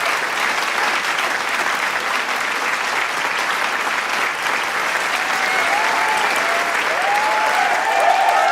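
Large crowd applauding steadily, a dense wash of many hands clapping. From about the middle on, cheers and shouts from the crowd rise over the clapping and grow louder near the end.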